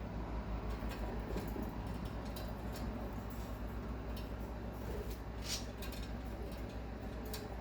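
Cockatiel nibbling and tearing at a Chinese long bean with its beak: faint, scattered small clicks and crunches over a steady low hum.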